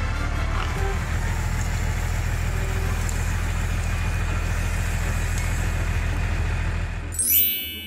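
A small motor or engine running steadily with a low hum. It cuts out near the end as a short, bright chiming sound effect comes in.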